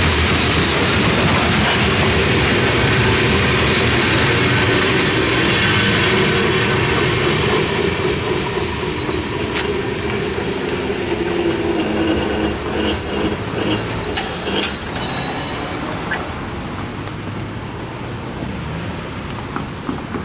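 A freight train's covered hopper cars rolling past on steel wheels, a loud, steady rumble and clatter. From about eight seconds in it grows quieter and more uneven, fading as the end of the train draws away.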